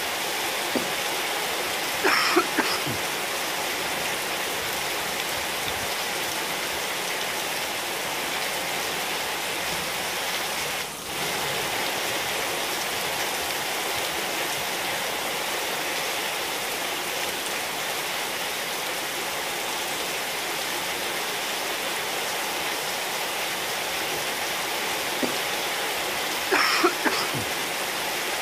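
Steady rain falling on wet tiles and puddles, an even hiss throughout. A short cluster of louder sharp spatters comes about two seconds in and again near the end.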